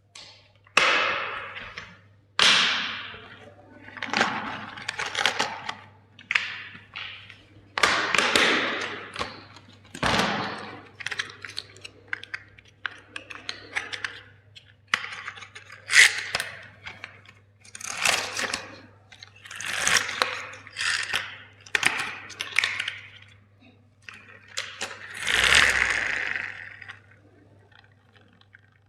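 Plastic toys and their packaging being handled and broken: a long series of separate crackling, tearing bursts, each a second or two long, some starting with a sharp snap. A steady low hum runs underneath.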